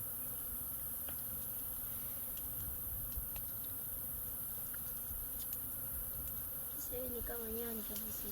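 A swarm of disturbed wild honeybees buzzing steadily around their nest in the baobab tree. A brief wavering tone comes in near the end.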